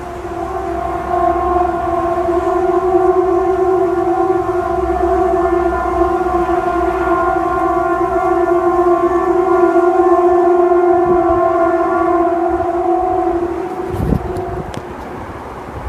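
A loud, steady tone with overtones, held without rising or falling for about fourteen seconds and then fading out: one of the unexplained 'strange sky sounds' that get likened to a trumpet.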